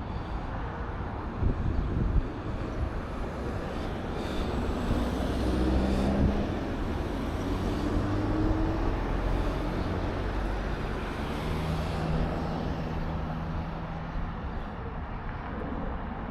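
Steady wind rush on the microphone while riding a bicycle along a road, with motor vehicle engine noise rising in pitch around the middle and a steady engine hum again later.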